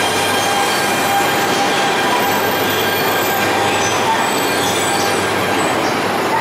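Tōhoku Shinkansen train moving slowly past the platform: a steady running noise with several steady high-pitched tones over it.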